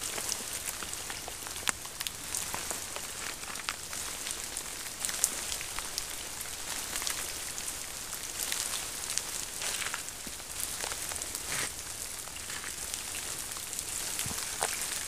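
Steady rain: an even hiss with many separate drops ticking close by.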